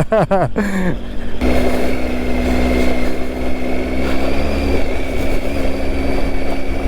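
Motorcycle engine running at steady revs while riding, with a rush of wind and road noise. It cuts in abruptly about a second and a half in.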